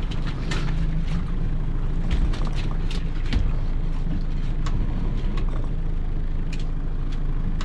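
Small fishing boat's engine running steadily at low speed, with short sharp knocks scattered over it.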